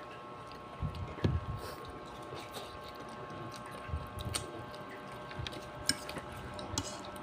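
Faint chewing and eating of palabok noodles, with soft scattered mouth sounds and small clicks, over a faint steady hum.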